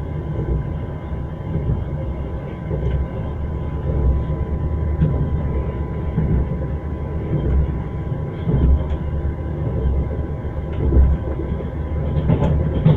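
Train wheels clattering on the rails: a steady low rumble with heavier knocks every few seconds as the wheels run over rail joints.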